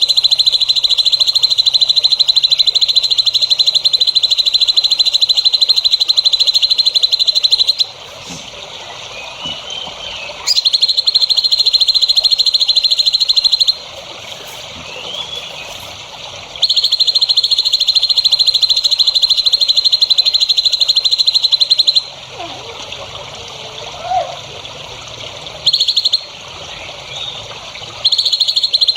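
A loud, high, very rapid trill that runs in stretches of several seconds and cuts on and off abruptly, five times. In the gaps between stretches there are softer chirps and lower warbling calls.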